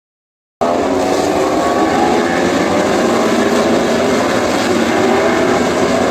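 Several MotoGP race bikes' engines running hard at high revs. A dense mix of engine notes rises and falls as they go by. It starts abruptly about half a second in.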